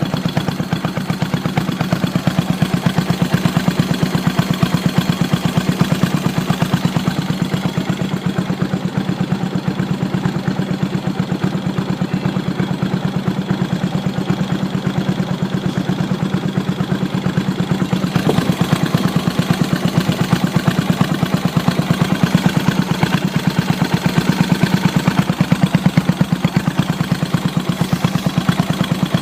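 Yamaha SR400's air-cooled single-cylinder engine, fitted with a Keihin FCR 41 carburetor, idling steadily with an even, rapid pulse.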